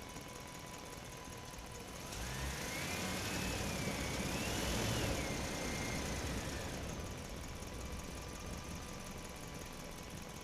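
Diesel engine of an Eicher 11.10 truck idling, swelling louder for a few seconds in the middle with a whine that rises and falls before it settles back to idle.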